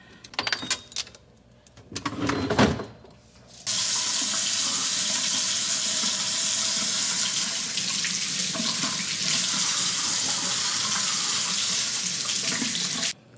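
A few clinks and knocks of dishes being handled. Then a kitchen tap runs steadily into the sink for about nine seconds and is shut off suddenly.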